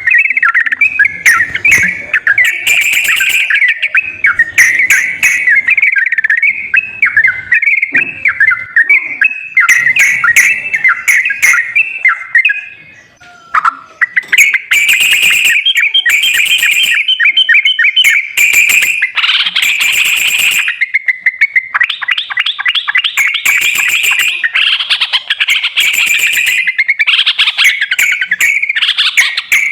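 Yellow-vented bulbul (trucukan) song: a continuous run of quick chirping phrases, with a short pause about thirteen seconds in.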